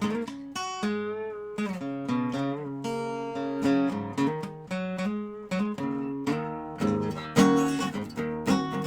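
Dobro resonator guitar playing an instrumental passage, chords strummed and picked in a steady rhythm.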